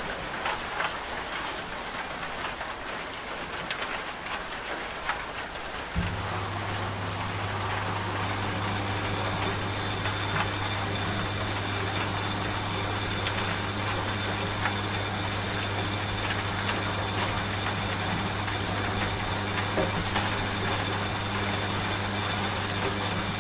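Steady rain pattering, with a washing machine's low motor hum over it. The hum is off at first and cuts back in suddenly about six seconds in, then runs steadily.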